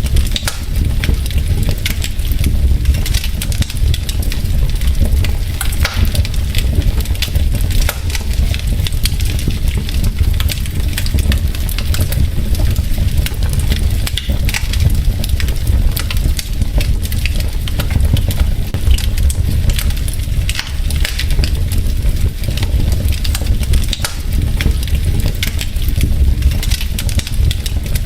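Wood fire crackling in a fireplace: burning logs give off a dense, irregular stream of pops and snaps over a steady low rumble.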